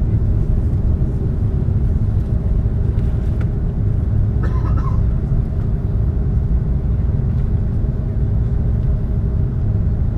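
Steady low rumble of an Airbus A330's engines and airframe heard from inside the cabin, with a constant hum running through it. A brief faint higher-pitched sound comes in about halfway through.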